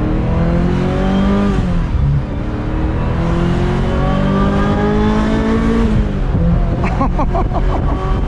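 Ferrari 355 F1's V8, with a Tubi exhaust, accelerating hard through the gears. The pitch climbs, drops at an automated-manual upshift about a second and a half in, then climbs again to another upshift near six seconds. Up high it takes on the harder tone of the open exhaust valve.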